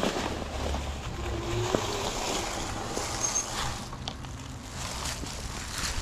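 Wind rushing over the microphone and the rumble of fat tires rolling on pavement as a 20-inch folding fat-tire e-bike is ridden along, with small scattered ticks and rattles.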